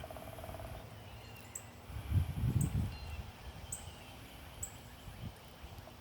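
Songbirds calling outdoors, one of them repeating a short, very high note about once a second, with fainter chirps among it. A low rumble rises and falls about two to three seconds in.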